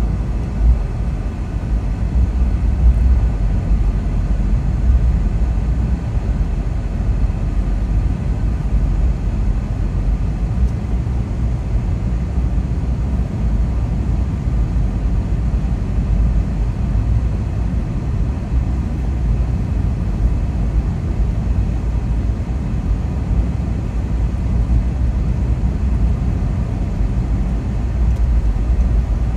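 Car driving at a steady pace: a constant low rumble of tyres and engine, with a faint steady hum above it.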